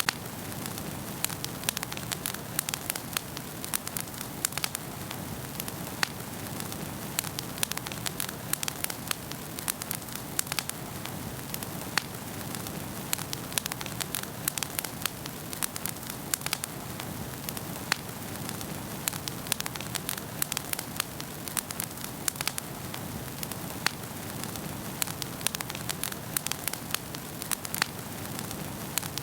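Wood fire crackling in a fireplace: a steady hiss with frequent irregular sharp pops and crackles.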